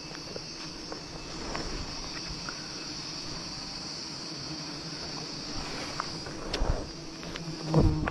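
A steady high-pitched insect drone, with a few short knocks and rustling near the end; the loudest comes about a second before the end.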